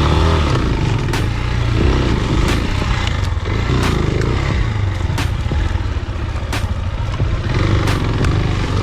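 Spark SP250D-1 motorcycle engine revving up and down again and again while riding over rough off-road ground. Sharp knocks and rattles come from the bike jolting over bumps about every second or so.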